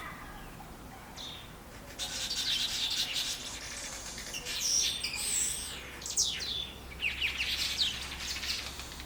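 Black-headed weaver colony chattering: a dense mix of short chirps and quick up-and-down notes. It comes in suddenly about two seconds in after a quieter start.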